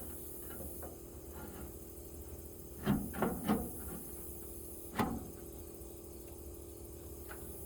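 Light knocks and clicks of a sheet-metal toolbox drawer being fitted onto its slides: three close together about three seconds in, then one more about two seconds later.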